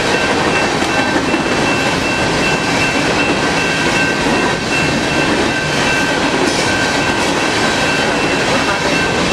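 Empty coal train cars rolling past close by, a steady, loud rumble and rattle of wheels on rail with some clickety-clack. A high ringing tone sounds over it throughout, with brief breaks.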